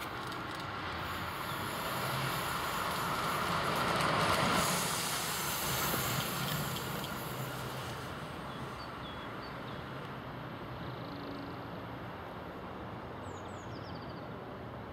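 Electric train running past on the line: a rushing rumble that builds to its loudest about four seconds in and then dies away to a steady lower hum.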